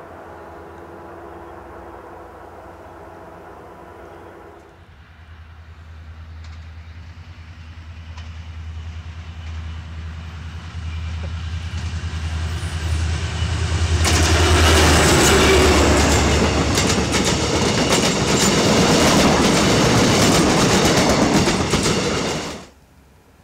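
Diesel-hauled passenger train approaching and passing close by: a low locomotive engine rumble builds from about five seconds in, then loud rapid wheel clatter over the rail joints from about fourteen seconds in, cutting off suddenly near the end.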